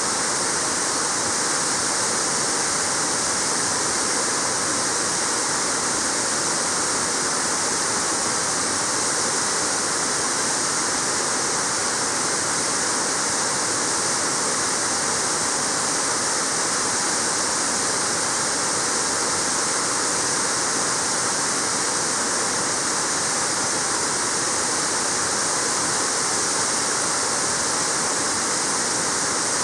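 Waterfall: water falling and splashing in a steady, unbroken rush with a strong hiss.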